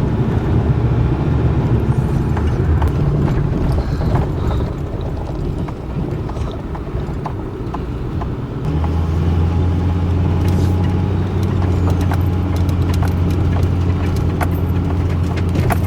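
Diesel pickup truck heard from inside the cab while driving: steady engine rumble and road noise, with the engine note growing stronger and holding steady about nine seconds in.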